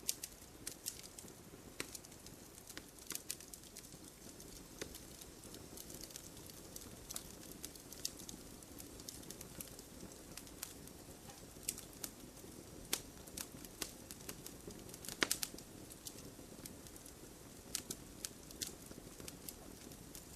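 Wood campfire crackling: irregular sharp pops and snaps over a low steady hiss of burning, with one louder snap about fifteen seconds in.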